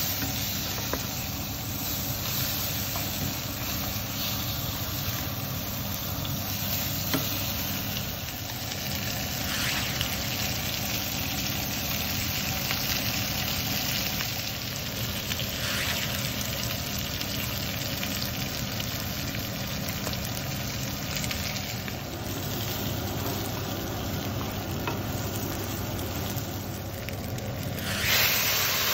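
Chicken pieces and chopped onion sizzling as they fry in a non-stick pan, with a spatula stirring and scraping now and then over a steady low hum. Near the end there is a louder burst of hissing as hot water goes into the hot pan.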